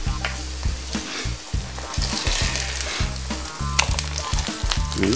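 A potato pancake frying in hot fat in a pan, sizzling steadily, over background music with a steady bass beat.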